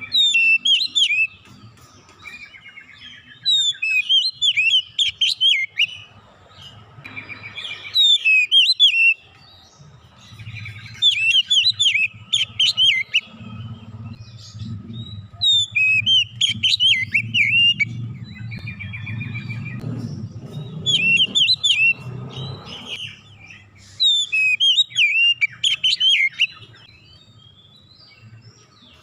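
Oriental magpie-robin (kacer) singing in repeated short bursts of rapid, varied whistled phrases with sharp up-and-down slides, several seconds apart, made up of its learned imitations. A low hum sits under the song through the middle.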